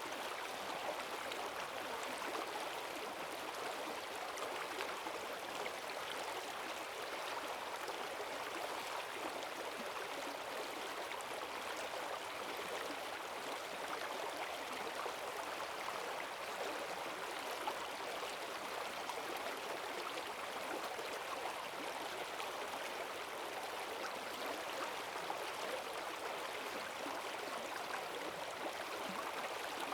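Rain-swollen forest stream rushing over rocks in a strong, steady current, an even splashing and gurgling wash without pause.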